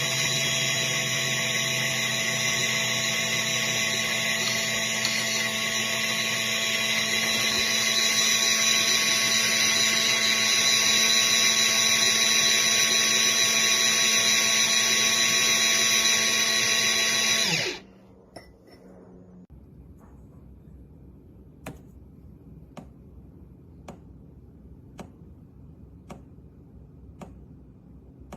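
Viesimple Gen 4 electric single-dose burr coffee grinder running steadily, growing a little louder partway through, then cutting off suddenly after about eighteen seconds. Faint ticks about once a second follow.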